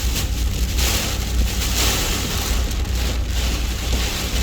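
Heavy rain pelting a Ram 2500 pickup truck as it drives through a windstorm, a steady hiss over the low rumble of the truck on the road.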